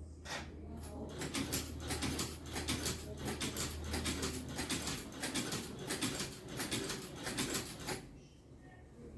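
Rapid, irregular scratching or scraping strokes that stop about eight seconds in, over a low steady hum that fades out about halfway through.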